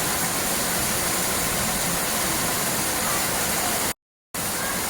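Steady rushing noise of falling water, like a waterfall, broken by a sudden gap of silence about four seconds in.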